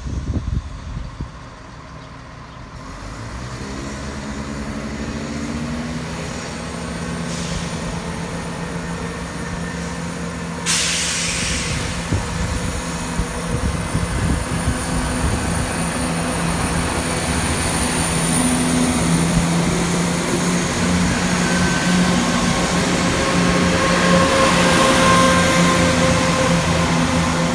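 Diesel passenger train running at the station: its engine note rises over a few seconds, then holds steady and grows louder. A sudden hiss, like an air brake, cuts in about eleven seconds in and continues.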